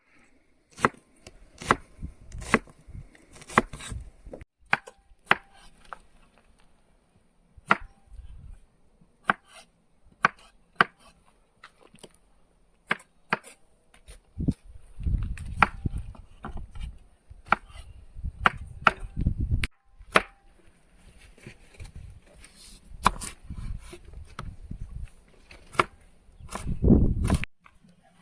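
Knife chopping vegetables on a cutting board in irregular single cuts, with a few stretches of low rumble.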